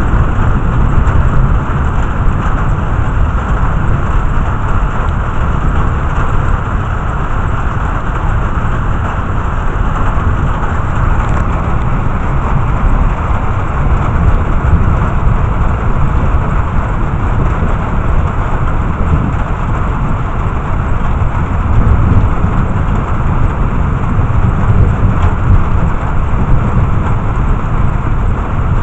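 Thunderstorm: a steady rain hiss over a continuous low rumble, with no distinct thunderclaps.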